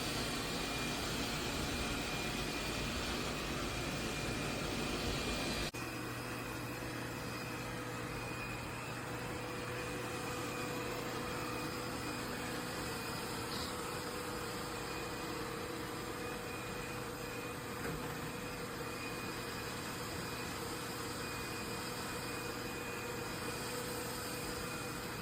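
Laresar robot vacuum running with a steady motor whir. About six seconds in, the sound changes abruptly to a quieter, steady hum.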